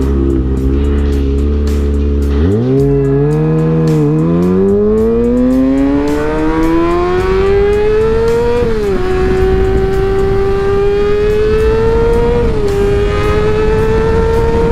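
Motorcycle engine running steadily at low revs, then pulling away about two and a half seconds in: the revs climb for several seconds, drop at a gear change about nine seconds in, climb again, and drop at another upshift near thirteen seconds before rising once more.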